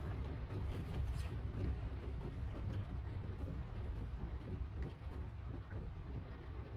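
Low, steady rumble of a manual car crawling slowly over a broken road, with a few faint clicks or taps.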